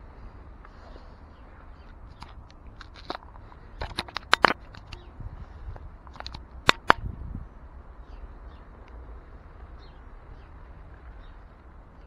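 Steady rain noise picked up by a small action-camera microphone, with a cluster of sharp clicks and taps around the middle and two more a couple of seconds later, which are the loudest sounds.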